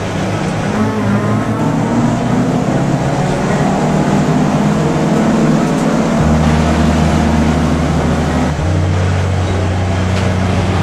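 Air-cooled Volkswagen Beetle flat-four race engine running hard under racing load, heard from inside the car's cabin. Its steady note jumps to a different pitch abruptly about two-thirds of the way through and again a couple of seconds later.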